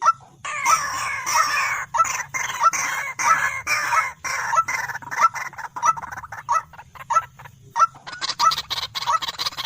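White-breasted waterhens (dahuk) calling: short loud notes repeated about twice a second, over a dense layer of overlapping calls that starts about half a second in.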